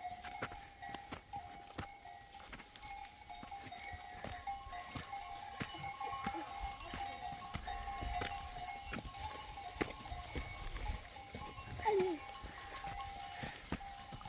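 A livestock bell ringing steadily, with irregular knocks of steps on the ground. A short sliding sound, the loudest moment, comes near the end.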